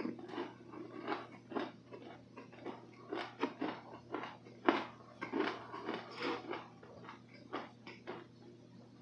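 Close-miked chewing of soft dessert: wet mouth smacks and clicks, irregular and many, with one sharp click about halfway through the loudest. It gets quieter toward the end.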